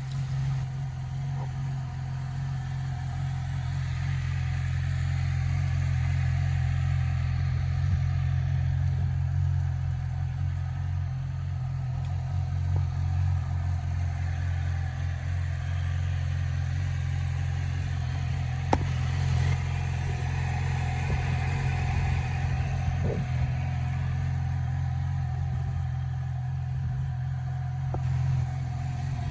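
2016 Yamaha YZF-R6's 600 cc inline-four engine running at a steady idle, with a few light clicks.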